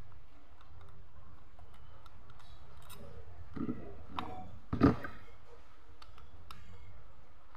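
Small metal parts and hand tools clicking and scraping as a throttle body is worked on, with a brief flurry of handling and one sharper knock about five seconds in.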